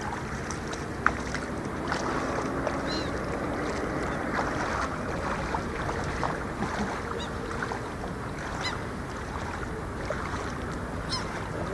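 Lake water lapping and splashing steadily, with a few short, high bird calls and a single click about a second in.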